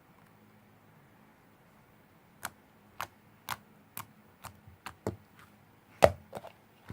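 A series of light taps or clicks of small hard objects, about two a second, starting a couple of seconds in, with one louder knock near the end.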